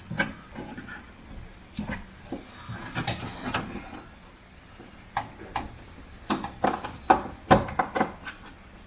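Scattered clicks, knocks and rubbing from a screwdriver and car trim parts being handled, with a cluster of sharper knocks in the second half.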